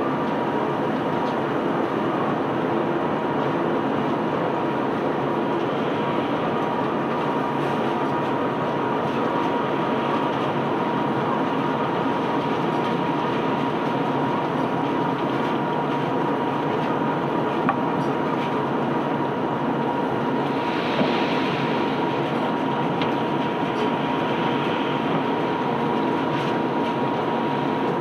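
Ship's conveyor belt running steadily while unloading sand: a continuous rumble and rattle from the belt and rollers, with a steady high whine over it.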